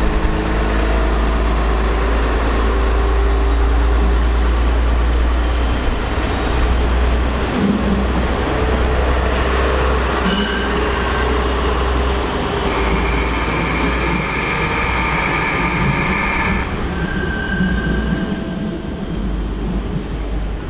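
Train moving through a station with a steady low rumble. About ten seconds in there is a brief high squeal, and from about thirteen seconds a steady high squeal that cuts off suddenly some three seconds later.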